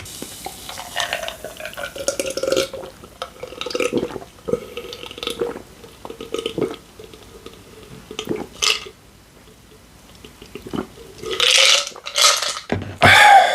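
A person drinking in gulps, with wet swallowing sounds, then a louder breathy gasp or burp near the end.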